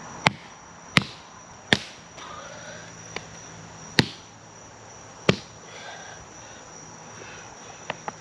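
A series of single sharp knocks at uneven intervals, roughly one every second or two, over a steady high insect trill.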